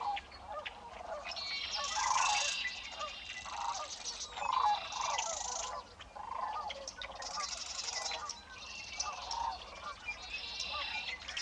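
A chorus of wetland birds calling: many short, repeated honking calls overlap with higher buzzy trills.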